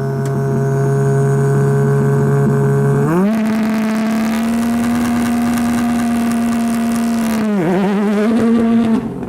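Ford Fiesta RS WRC's turbocharged 1.6-litre four-cylinder engine held at steady revs. It steps up to higher revs about three seconds in and holds them, with a brief dip near the end before the revs drop off.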